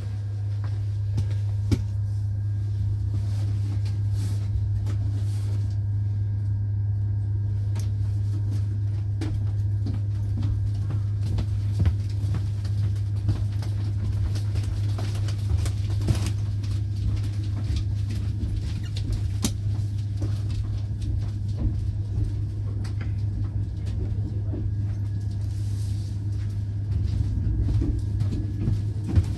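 Steady low rumble of a moving passenger train heard from inside the coach, with scattered faint clicks and rattles from the running gear.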